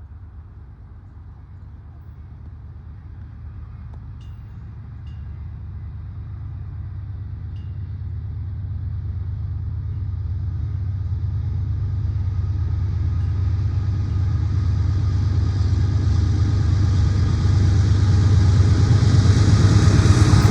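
Norfolk Southern diesel freight locomotives approaching: a low engine rumble that grows steadily louder, with a hiss coming up toward the end.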